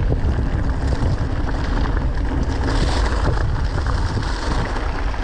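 Strong wind buffeting the microphone, a loud, steady low rumble with a rushing hiss over it, as he rides fast downhill.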